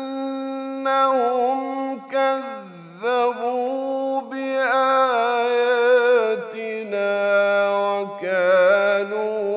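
A man reciting the Quran in a slow, melodic style, holding long ornamented notes that waver in pitch, with brief breaks between phrases.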